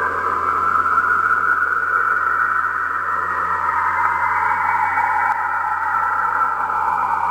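Cassini spacecraft's recording of Saturn's electromagnetic (plasma wave) emissions, converted to sound and played back: a steady, eerie whooshing band that slowly falls in pitch from about four seconds in, with a thin higher tone joining near the end.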